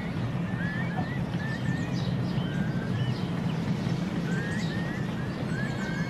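Small birds chirping and twittering repeatedly with short slurred notes, over a steady low rumble.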